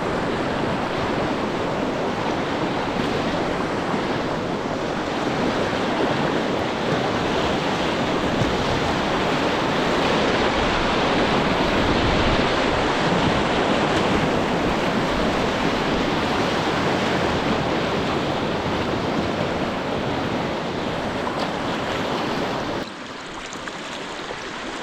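Rushing river water over a shallow rapid, a steady loud rush that drops away sharply near the end.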